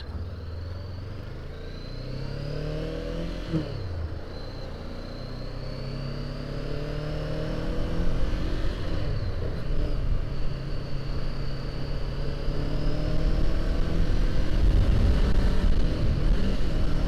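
Honda CBR500R's parallel-twin engine accelerating through the gears, its pitch climbing and dropping back at each upshift, getting louder as speed builds, over low wind rumble on the camera's microphone.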